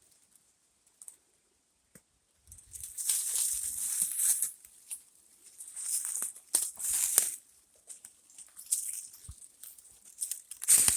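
Footsteps rustling and crunching through dry leaf litter. After a short near-silent stretch, the crunches come in uneven bursts of a second or so each.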